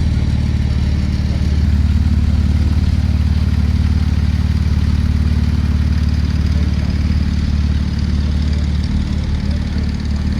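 A car engine idling steadily, close by, with an even low note that holds without revving.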